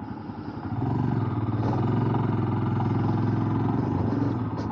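Motorcycle engine running under throttle as the bike rides along, getting louder about a second in and easing off near the end.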